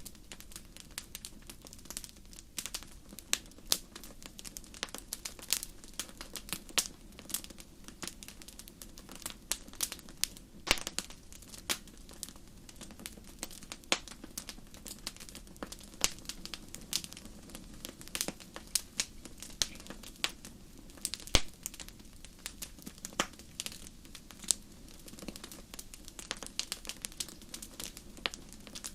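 Fire crackling in a fireplace: irregular sharp pops and snaps, several a second, over a steady low background noise.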